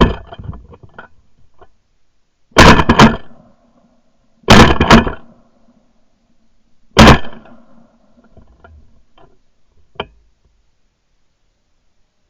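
Shotgun blasts: a string of loud shots spaced one to two and a half seconds apart, some following close on one another, with a fainter, more distant shot near the end.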